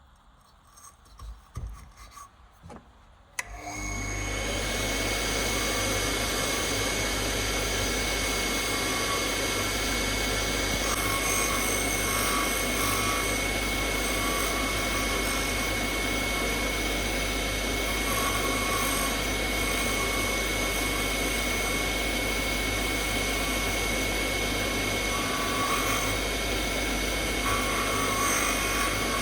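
A few light knocks, then an electric power tool starts about three and a half seconds in and runs steadily with a constant whine, working the piece.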